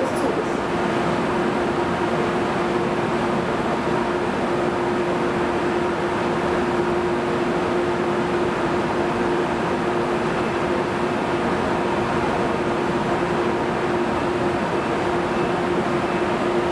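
Electric train at a railway platform: a steady hum and rumble with one constant low tone, unchanging throughout.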